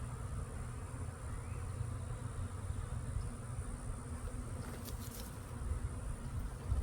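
Honeybee swarm buzzing, a steady hum of many bees in flight after leaving the hive, over a low irregular rumble, with a few faint clicks about five seconds in.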